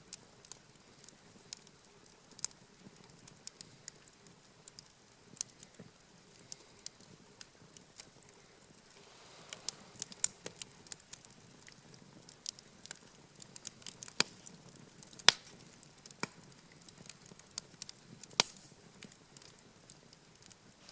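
Wood campfire crackling, with irregular sharp pops and a few louder snaps in the second half.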